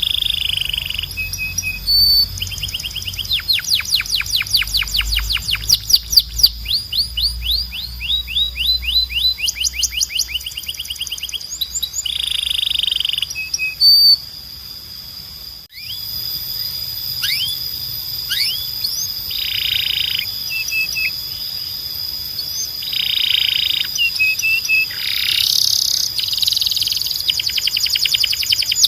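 Belgian canary singing: fast trills of repeated high sweeping notes, broken by short buzzy notes and held high tones. The song dips briefly about halfway through, then carries on.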